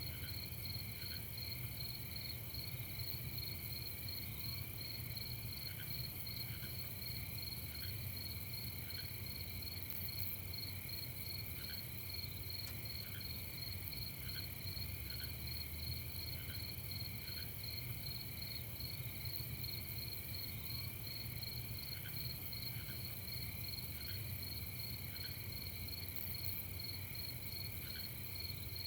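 Night chorus of crickets trilling steadily in rapid pulses, with fainter short calls now and then over a low steady hum.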